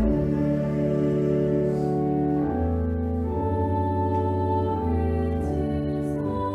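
Organ playing slow, held chords over a sustained bass, the chords changing every second or two.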